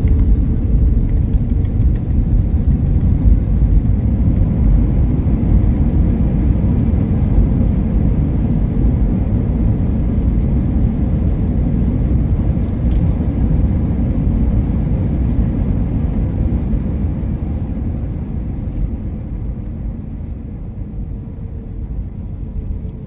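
Airliner cabin noise during landing: a loud, steady low rumble of engines, airflow and airframe, easing off over the last few seconds.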